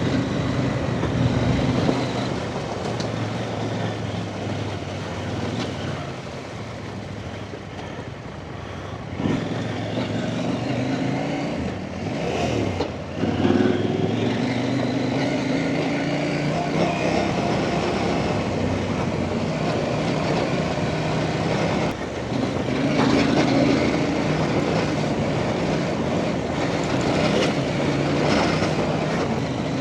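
Off-road trail motorcycle engine running under way, its pitch rising and falling as the throttle is opened and closed, easing off for a few seconds and picking up again at around 9 and 13 seconds, with steady wind and road noise.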